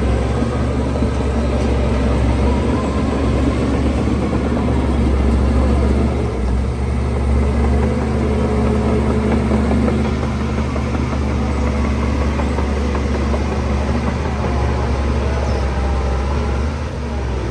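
Heavy diesel engine of construction machinery running steadily with a deep drone, dipping briefly near the end.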